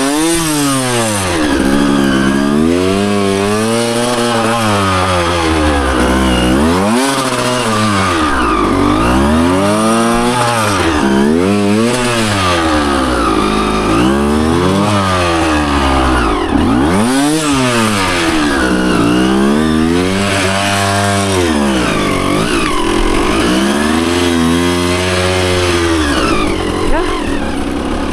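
Dirt bike engine revving up and falling back over and over as it is ridden, its pitch climbing and dropping every couple of seconds with the throttle and gear changes. There is a brief knock near the end.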